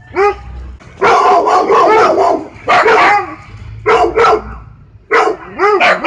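Siberian husky barking, with a long wavering call about a second in, then a string of short barks near the end.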